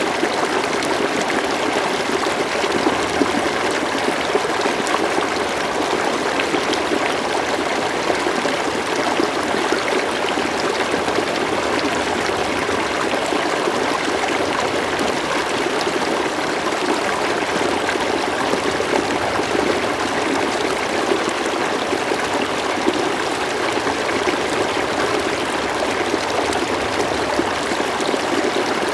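River water flowing and trickling, a steady, even rush with no breaks or changes.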